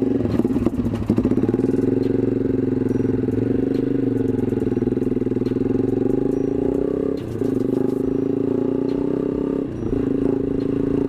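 Z200S motorcycle engine running through an open aftermarket exhaust with no silencer insert, a steady, noisy exhaust note. The pitch dips briefly twice, about seven and ten seconds in.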